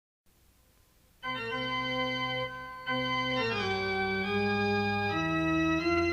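Keyboard with an organ sound playing slow, sustained chords that change every second or so: the opening of a ballad. It comes in about a second in, after a short near-silent gap.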